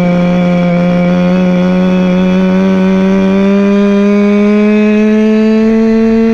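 Goped scooter's CY26RC two-stroke engine, from an HPI fifth-scale RC car, running hard under way. Its pitch climbs slowly and steadily as it picks up revs.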